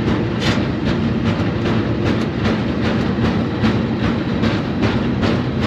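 Freight car rolling along the rails, heard from aboard: a steady low rumble and hum with rhythmic wheel clicks, about three a second.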